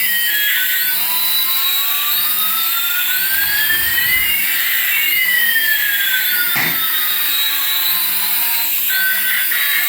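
High electric whine from small motors, in two tones that glide in opposite directions, one rising and one falling, crossing each other midway. A single sharp click comes about six and a half seconds in, and faint background music runs under it.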